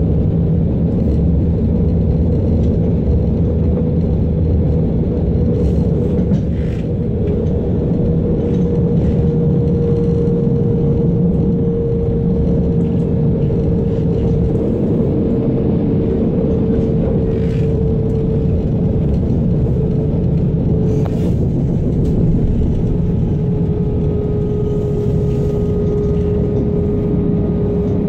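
Interior running noise of a DB class 425 electric multiple unit at speed: a steady rumble of wheels on rail with a held whine whose pitch drops a little about two-thirds of the way through. A few faint clicks come through.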